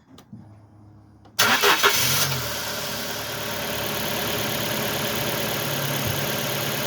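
Ford Focus car engine starting: it catches about a second and a half in, flares briefly, then settles into a steady idle. It runs after a repair to a broken coil-pack wire, which the mechanic judges good.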